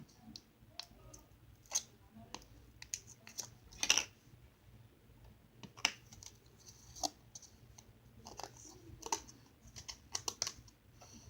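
Slime being poked with fingers, giving irregular sticky clicks and small pops, a few of them louder.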